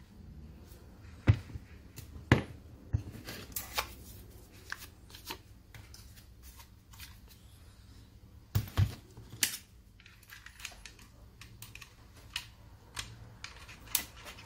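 Scattered clicks and knocks of angle-grinder parts being handled during disassembly, with a few louder knocks about a second in, two seconds in and near nine seconds.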